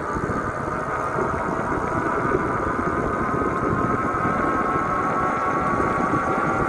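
Motorcycle engine running under way, with wind rush on the microphone; the engine note climbs slowly and the sound grows a little louder as it goes.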